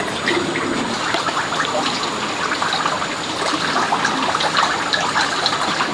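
Water running and splashing: a steady rush with many small splashes.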